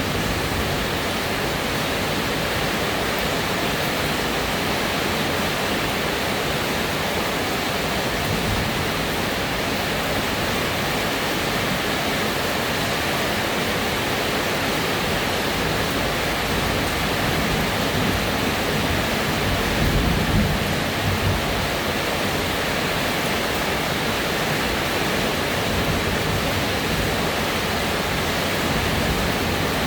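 Steady heavy rain falling, a dense even hiss of water, with a brief low rumble about two-thirds of the way through.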